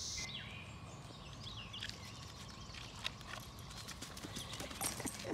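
Cicadas' steady high buzz, cutting off abruptly just after the start, followed by faint scattered clicks and short chirps.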